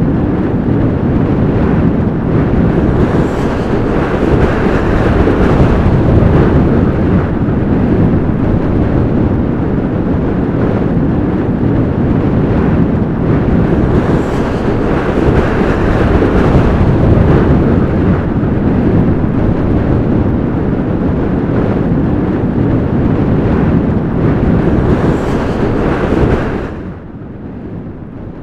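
Strong blizzard wind rushing and buffeting the microphone with a deep rumble, rising and falling in gusts. It drops off sharply near the end.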